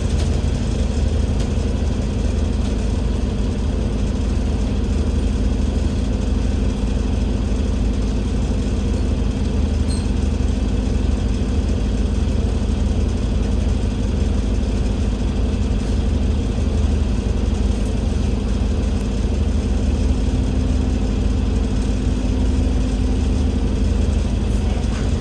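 Cummins L9 diesel engine of an Alexander Dennis Enviro500 MMC double-decker bus running at a steady, unchanging pitch, a constant low hum with no revving.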